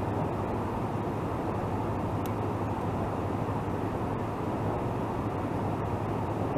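Steady outdoor rumble and hiss with a low, even hum underneath, and one faint tick about two seconds in.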